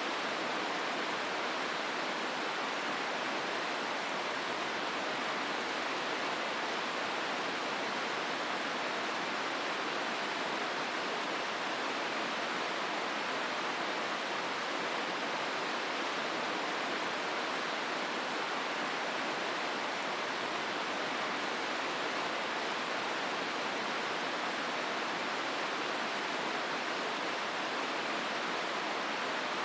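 River water rushing steadily through a rocky gorge, an even, unbroken roar.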